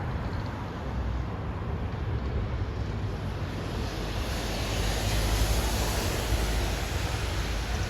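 Bus engine running with steady low hum and road noise, swelling a little about halfway through.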